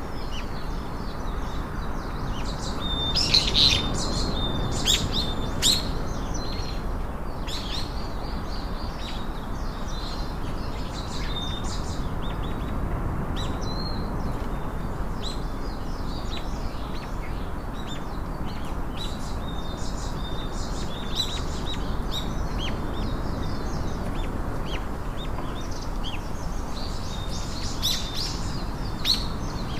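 Small birds chirping and calling, many short high notes and a few brief held whistles, over a steady low background rush.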